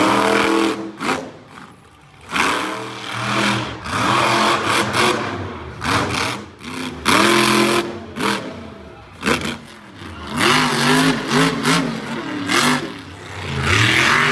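Monster truck engine revving hard in repeated surges, its pitch climbing and dropping several times, with loud noisy rushes between the revs.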